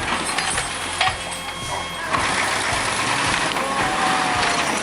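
Heavy vehicle running: a steady rumble with scattered knocks and rattles.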